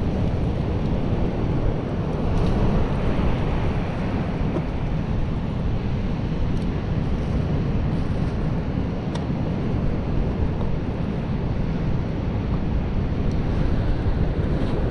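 Strong wind buffeting the microphone over the steady rush of surf.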